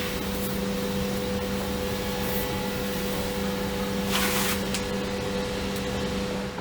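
A machine running with a steady hum, with a short hiss about four seconds in; it cuts off abruptly at the end.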